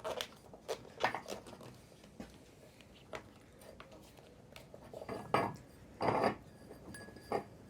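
Scattered light metallic clinks and knocks of suspension strut parts being handled during assembly, with a few louder knocks in the second half.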